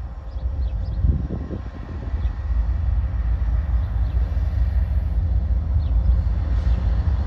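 CSX diesel locomotives leading a freight train as it approaches, a low rumble that grows steadily louder.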